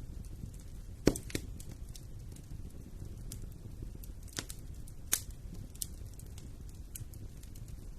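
Fireplace fire crackling, with sharp pops scattered over a low steady rumble. The loudest pop comes about a second in, and several smaller ones follow.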